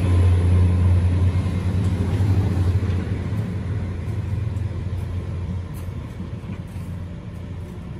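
Great Western Railway Class 802 bi-mode train pulling away on its underfloor diesel engines: a steady low drone that fades as the train moves off.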